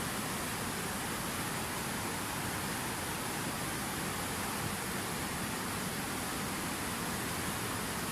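Rushing water, a steady even hiss with no breaks or changes.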